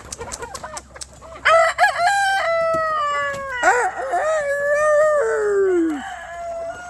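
A rooster crowing once: a long call of about four and a half seconds, held in several steps and sliding down in pitch at the end. Short clicking sounds come before it.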